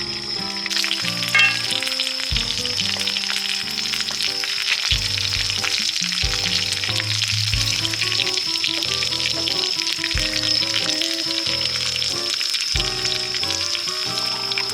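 Food frying in a hot pan, a steady sizzle with fine crackling, over background music with a slow bass line.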